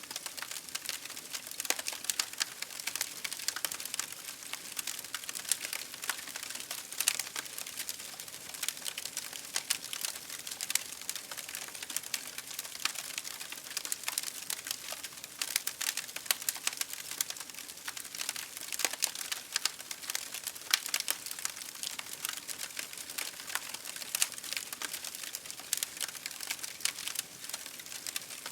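Campfire crackling: burning wood giving off a dense, steady stream of small pops and snaps, with a few louder snaps here and there.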